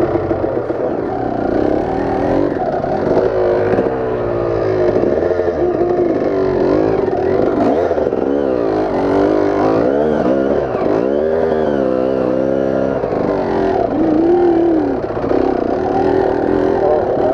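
Dirt bike engine revving up and down over and over, its pitch rising and falling every second or so as the throttle is worked.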